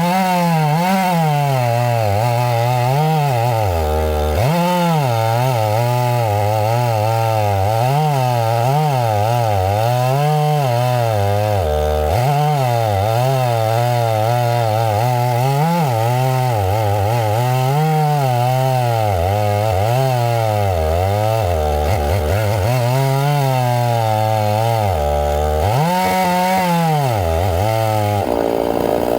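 Chainsaw cutting into pine. Its engine pitch repeatedly drops and climbs back as the chain loads up in the wood and frees again. Near the end it settles into a higher, steadier pitch.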